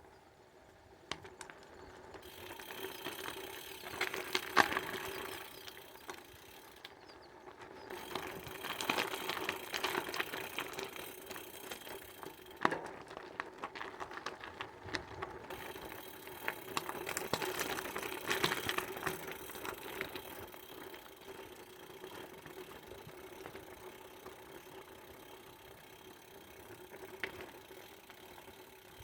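A bike rattling and clicking as it is ridden over uneven ground, with sharp knocks here and there over a steady hum.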